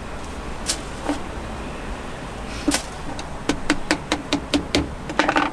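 Sharp taps and clicks, like hard utensils striking a hard surface: a few single clicks, then a quick run of about ten taps in the second half, roughly five a second.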